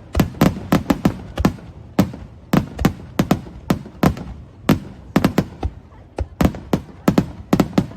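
Fireworks going off in a rapid, irregular barrage, about three or four sharp bangs a second, each with a short rumbling echo.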